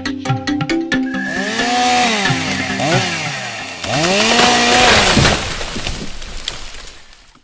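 Chainsaw running, its engine revving up and down again and again as it cuts, loudest about four seconds in and fading out near the end. Music plays over the first second.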